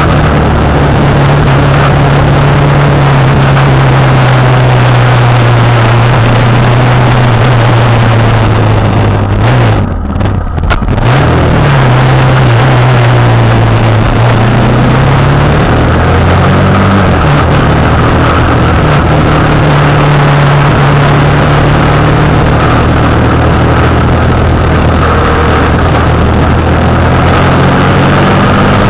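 A motorcycle engine running under way, with wind noise over the microphone. The engine's pitch swings down and back up several times as the rider eases off and accelerates again, dropping most, and briefly quieter, about ten seconds in.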